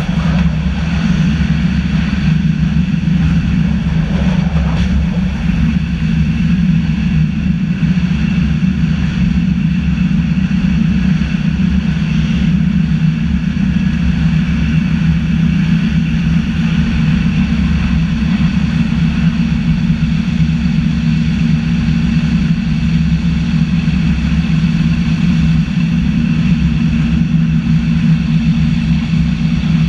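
Zentralbahn electric train running steadily along the track, heard from the driver's cab: a constant low rumble with faint steady high tones above it.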